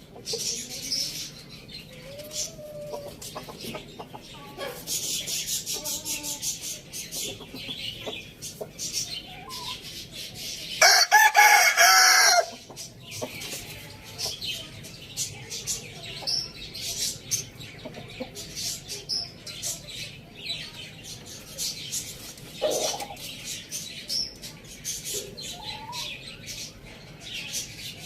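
Rooster crowing once, loud, about eleven seconds in, for about a second and a half. Hens cluck and small birds chirp around it.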